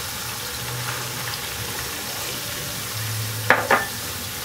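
Onion and ginger frying in oil in an aluminium pan with a steady sizzle, while a wooden spoon stirs powdered hot pepper in. About three and a half seconds in, the spoon gives two sharp knocks against the pan.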